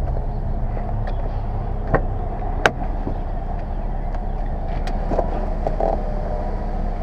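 1999 Volvo S80 T6's twin-turbo straight-six engine idling steadily, with two sharp clicks about two and two and a half seconds in.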